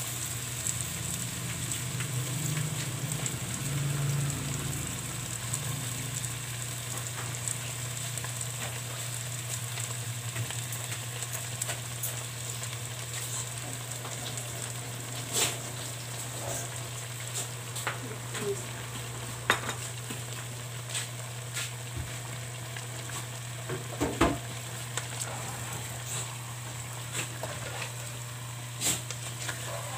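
Chicken pieces sizzling gently in a pan on the stove, over a steady low hum. A few sharp knocks of a spatula against the pan come in the second half.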